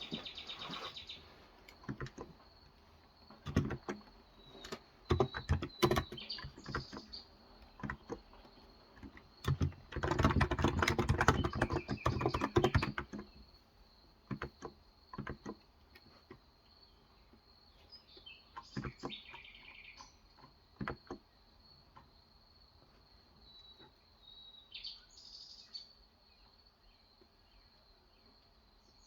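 Typing on a Cox Endeavour electro-capacitive 35 g tenkeyless keyboard: scattered keystrokes, with a fast run of typing about ten seconds in. Birds chirp a few times, and a steady high-pitched tone runs underneath.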